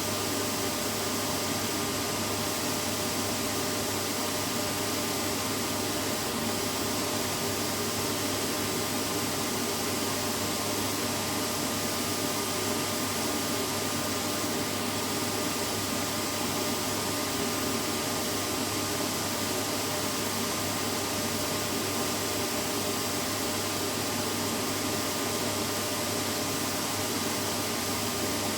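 Vacuum cleaner running steadily without a break: an even rush of air with a few steady whining tones over it.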